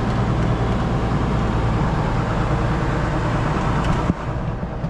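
John Deere 4840 tractor's six-cylinder diesel engine running steadily as the tractor drives over loose fill dirt to pack it down, with a short knock about four seconds in.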